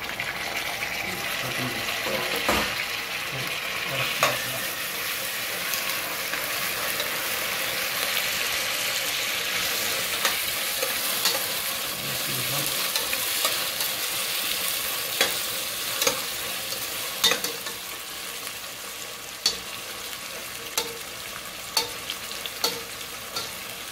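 Onions, tomatoes and curry leaves sizzling in hot oil in a stainless steel pot, stirred with a steel ladle that scrapes and clinks against the pot now and then.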